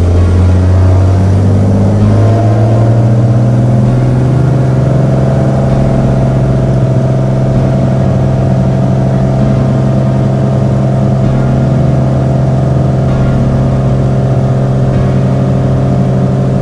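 Six-cylinder piston engine of a Beechcraft Bonanza, its pitch rising over the first couple of seconds and then holding a steady drone.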